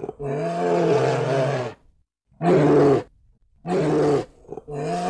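Brown bear roaring: a long roar, then two short ones, with a fourth starting near the end, each dropping in pitch partway through.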